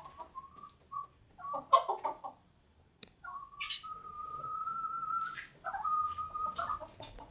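Birds calling in a coop: a short burst of clucking calls about two seconds in, then a long, steady, whistle-like note lasting about two seconds, and a shorter one about a second later.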